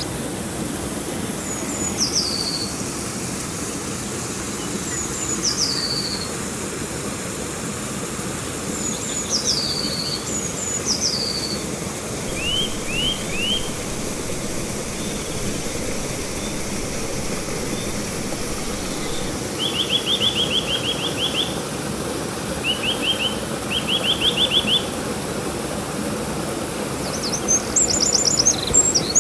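Steady rush of flowing river water with songbirds calling over it. The birds give several down-slurred whistled notes in the first half, then short rising notes, runs of quick trills, and a high chatter near the end.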